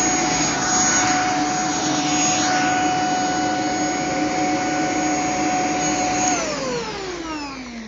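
Shark POWERDETECT corded stick vacuum running with a steady motor whine, then winding down with a falling whine a little over six seconds in as the motor is switched off.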